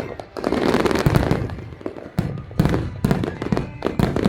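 Fireworks going off in quick succession: a dense run of bangs and crackling, with heavier low booms among them.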